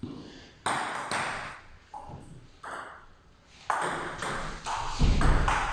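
Table tennis rally: a celluloid-type ball clicking off rubber-faced bats and the table, a sharp hit roughly every half second to a second, with a heavier low thud about five seconds in.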